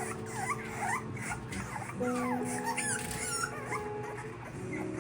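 A litter of French bulldog puppies, almost six weeks old, whimpering and squeaking: many short, high cries that rise and fall in pitch and overlap one another.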